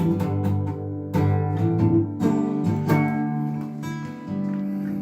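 Acoustic guitar strumming chords, playing the intro of a song before the singing comes in.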